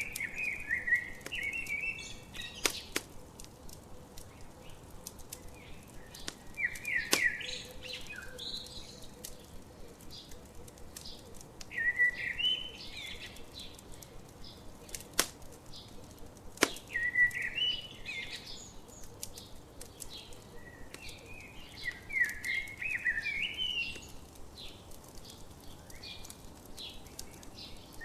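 A songbird repeating a short warbling song phrase about every five seconds over a crackling campfire. The fire gives off a steady fine crackle and a few sharp, loud pops.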